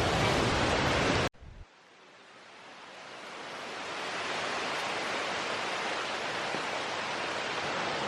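Steady rushing of a waterfall, a dense even hiss. It cuts off abruptly about a second in, then fades back up and holds steady.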